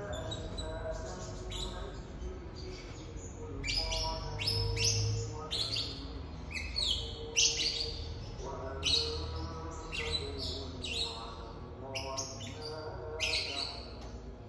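A songbird singing a rapid, varied run of short chirping and whistled phrases, densest from about four seconds in.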